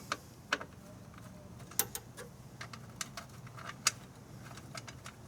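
Scattered sharp metallic clicks and taps of tools and small parts being handled while a lawn mower's recoil starter is taken apart. About eight separate clicks, spread irregularly over a faint steady hum.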